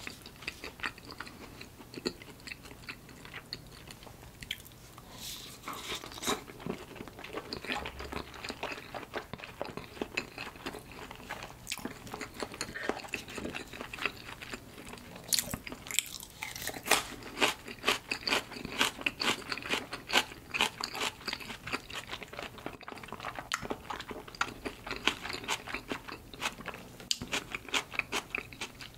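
Close-miked chewing of salmon sushi: a steady run of wet mouth clicks, busier in the second half.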